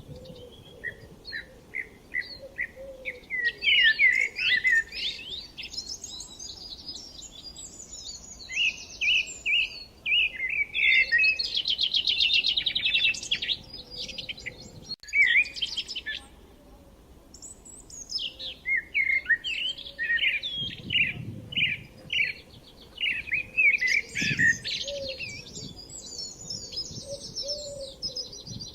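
Songbirds chirping and singing, a busy run of quick, high chirps and trills, briefly dropping out about halfway through and easing off for a couple of seconds before picking up again.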